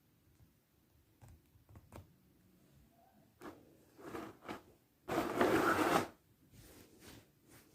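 Figure packaging being handled and opened: scattered light clicks and crinkles, a few short rustles, then a loud noisy rustle lasting about a second just past the middle.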